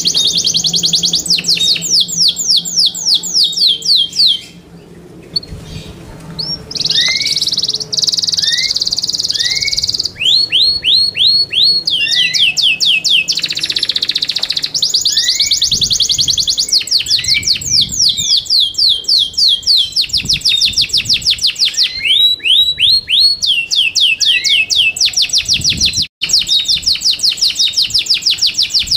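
Yorkshire canary singing: long, fast trills of repeated downward-sweeping notes, broken about five seconds in by a few slower, softer notes before the rapid trills return.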